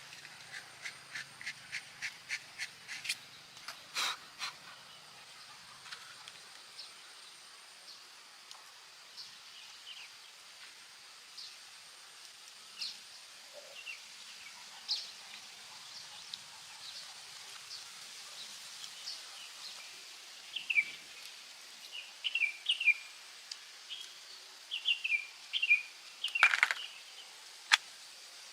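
Birds chirping in short falling notes, coming more often and louder near the end. Over the first few seconds there is a run of sharp clicks, about three a second.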